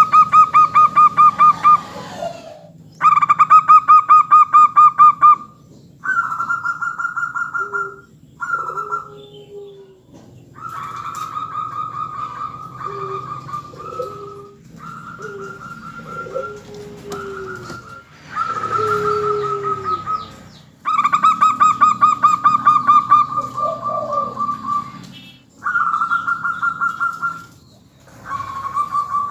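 Several zebra doves (perkutut) singing in turn: repeated bursts of rapid, pulsed cooing notes lasting a few seconds each, with lower, short falling coos between them.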